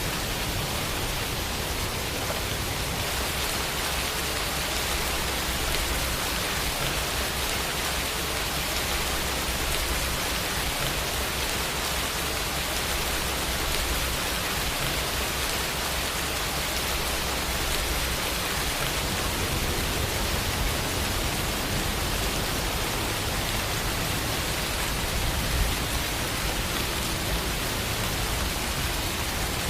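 Steady rain falling, an even hiss of many drops with no thunder or other sounds.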